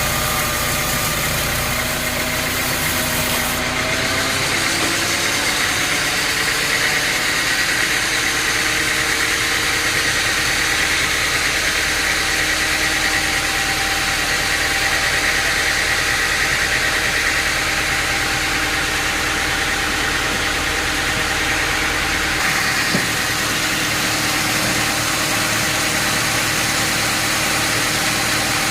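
Sawmill machinery running steadily with a motor-like note that rises in pitch over the first few seconds and then holds, over a constant high hiss.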